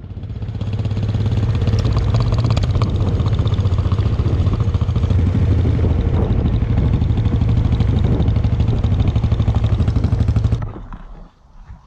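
Motorcycle engine running at a steady speed under way, with a fast, even pulsing drone. It cuts off abruptly near the end.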